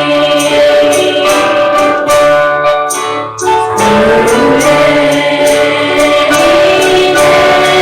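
Church singers performing a gospel hymn with a tambourine on the beat, about two shakes a second. The music thins briefly about three seconds in, then carries on.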